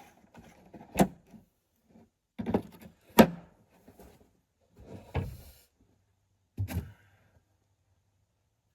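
Hand tools clanking while a wrench is being fitted to the processor's bar bolt: about five sharp clinks and knocks, the loudest about three seconds in.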